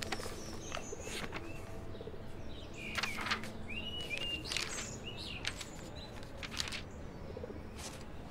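Small birds chirping in short curved calls, clearest about three to four seconds in, with soft paper rustles as sketchbook pages are turned.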